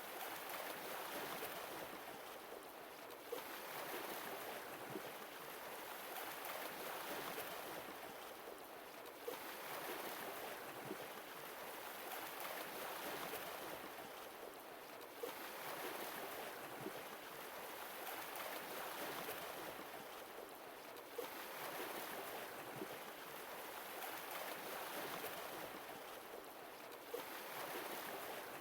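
Sea waves washing ashore and drawing back, the rush swelling and easing about every six seconds, with a short sharp tick at the lull between waves.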